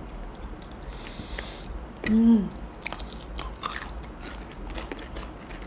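Someone biting and chewing food up close, with scattered small clicks and crunches, a short hiss about a second in, and a brief voice sound falling in pitch about two seconds in.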